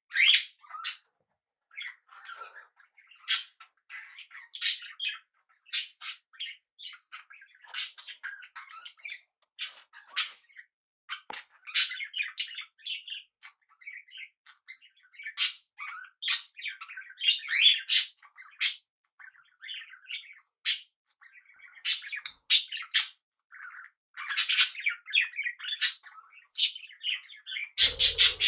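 Pet budgerigars and cockatiels chirping and calling: a steady, irregular stream of short chirps broken by louder sharp squawks every few seconds.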